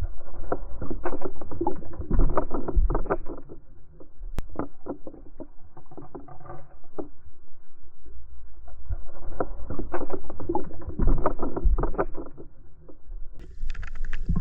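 Muffled river water sloshing and splashing with many irregular knocks, as heard on a waterproof action camera. Near the end the sound suddenly turns brighter and clearer, with splashing.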